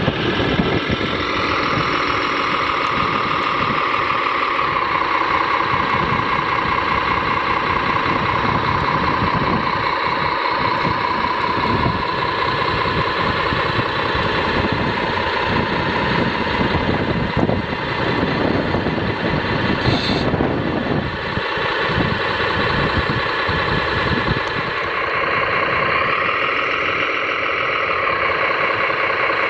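Radio-controlled scale construction vehicles running, with a steady whine from their motors and gearing that rises and falls in pitch near the start and again near the end, over a constant mechanical rumble.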